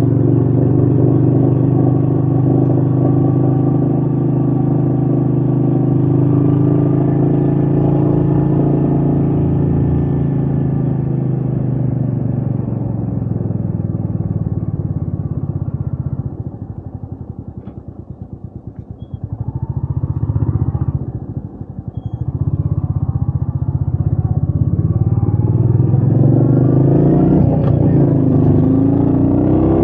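Royal Enfield Meteor 350's single-cylinder engine pulling steadily under throttle. About halfway through the throttle closes and the engine drops to a quieter, slower thump, with a short blip. It then picks up again and accelerates, its pitch rising.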